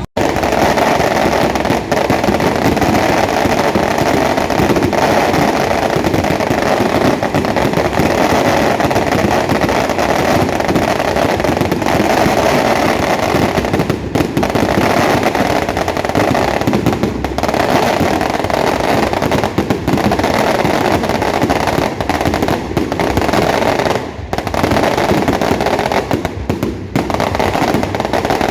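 A dense barrage of fireworks and firecrackers crackling and popping continuously, with a few brief lulls, as the festival bonfire is set alight.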